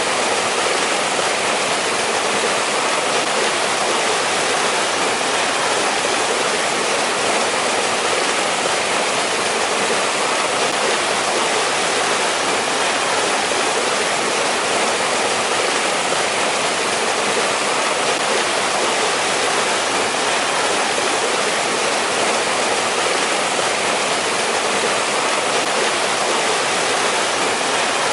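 Mountain valley stream running steadily over rocks, a constant rushing of water with no breaks.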